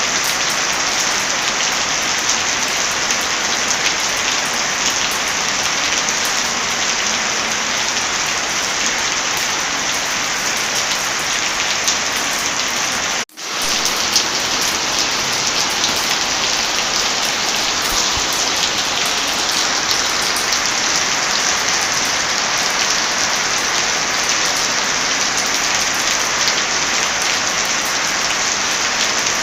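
Heavy rain falling steadily as an even hiss. The sound cuts out briefly about halfway through, then picks up again at the same level.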